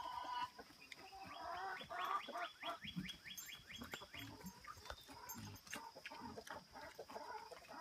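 Chickens clucking, with a quick run of short clucks about two to four seconds in and scattered single clucks after.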